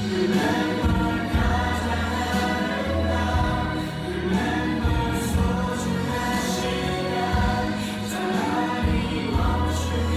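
Choir singing over backing music with a steady bass line: the soundtrack song of a theme-park fireworks show.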